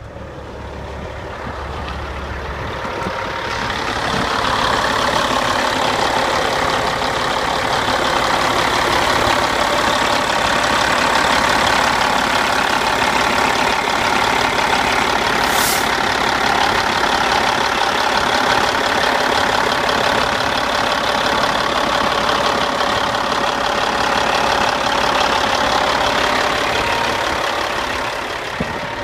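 Caterpillar 3406E inline-six diesel engine idling steadily, heard up close at the open engine bay. It grows louder over the first few seconds and eases back near the end.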